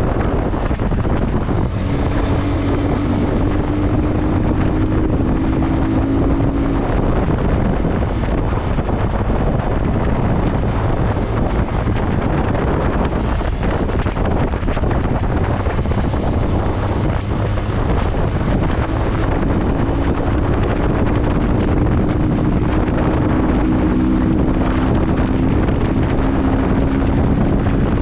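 Motorcycle on the move: heavy wind buffeting on the microphone throughout, with the engine's steady drone showing through twice, rising a little in pitch, from about two seconds in and again from past the halfway point.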